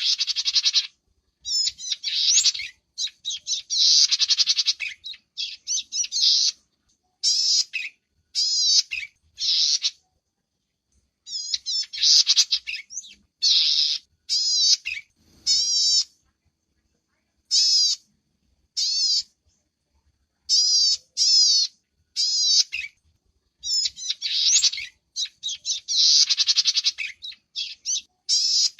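Small songbird calling in repeated bursts of rapid, high, wavering chirps and trills, each lasting under a second or so, with short silent gaps between them.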